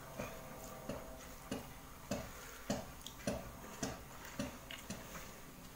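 A person chewing a mouthful of rice and curry close to the microphone, wet mouth clicks in a steady rhythm of about one and a half chews a second.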